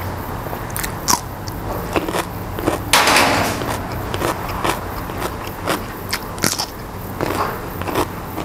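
Close-miked biting and chewing of a raw green vegetable: irregular crunches about once a second, with wet mouth sounds between them. The loudest crunch comes about three seconds in.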